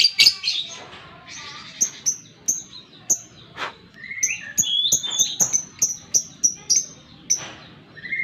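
Lovebird calling: a loud burst of shrill calls at the start, then a run of short, sharp, high chirps, two to four a second.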